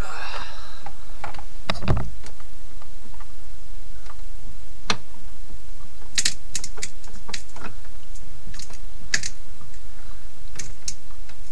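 Irregular sharp clicks and taps, bunched together a little past the middle, with one duller, heavier knock about two seconds in.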